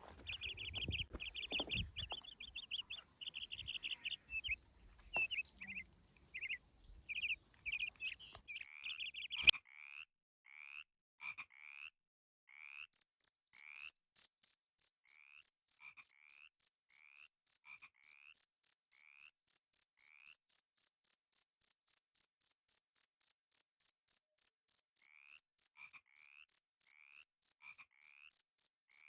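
Frogs calling at a pool: short croaks, each rising in pitch, repeated about once a second. A high insect chirping pulses steadily behind them, and there is one sharp knock about a third of the way in.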